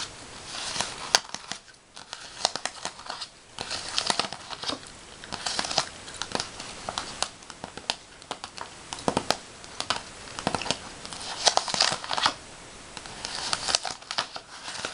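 Paper being handled and worked with fingernails: irregular crinkling and scratching with many small crackles and sharp ticks.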